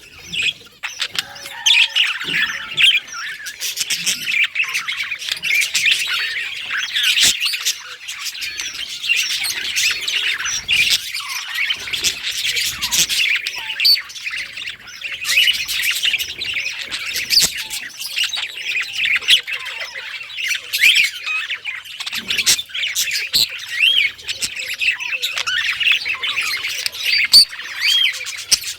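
Budgerigars warbling and chirping without pause, a dense chatter of quick chirps, squawks and clicks.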